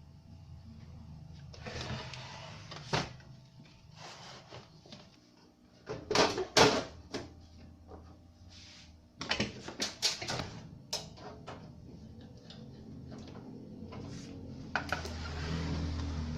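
Handling noises from repair work: scattered clicks and knocks, densest about six seconds in and again around ten seconds, over a steady low hum that grows louder near the end.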